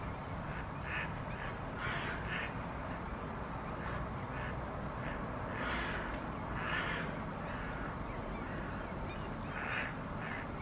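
Harsh bird calls, short and repeated at irregular intervals of one to three seconds, over a steady low rumbling background.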